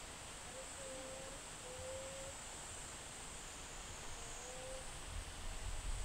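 Three soft, even hooting calls from a bird, the third after a pause of about two seconds, over a steady high-pitched hum of insects. A low rumble rises near the end.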